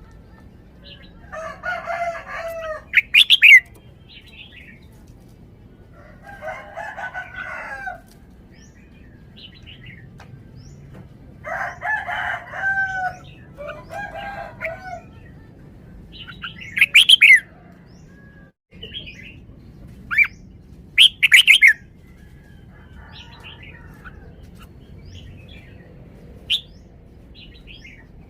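Red-whiskered bulbul giving short, loud, bright whistled calls in clusters, about three seconds in, around seventeen seconds and twice around twenty-one seconds. Between them a rooster crows four times, each crow lower and about a second and a half long.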